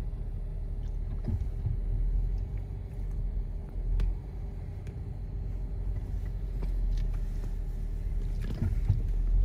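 Jeep Wrangler engine running low and steady, heard from inside the cabin while crawling slowly over rock, with a few sharp clicks and knocks.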